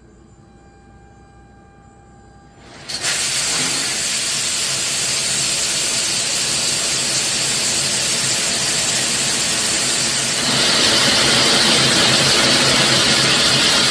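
Heavy rain: a loud, steady rushing hiss that starts abruptly about three seconds in and grows brighter about ten seconds in.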